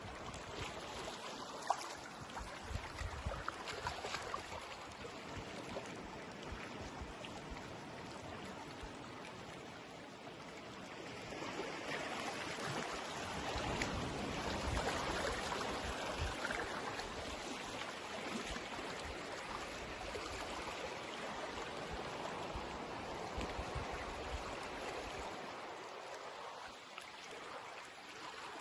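Small waves washing onto a sandy beach: a steady wash of water that swells louder about twelve seconds in, then eases.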